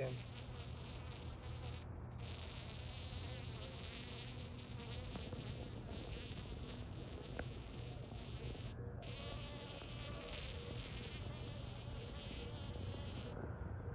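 Insects buzzing: a steady high-pitched insect drone with fainter, lower buzzing from flying insects near the microphone. The high drone breaks off briefly a few times.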